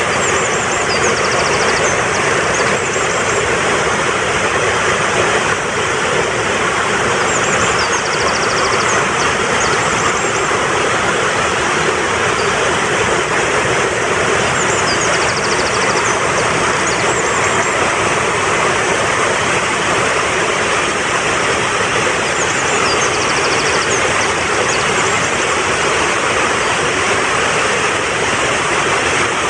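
Fast-flowing mountain stream rushing steadily. A short, high bird chirp-and-trill comes back about every seven to eight seconds.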